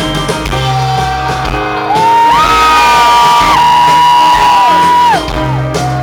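Live rock band music, loud, with several long high notes held together from about two seconds in, sliding up at their start and dropping away together a little after five seconds.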